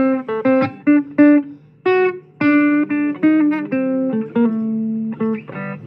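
Blues guitar playing a picked single-note riff, some notes bent or slid in pitch.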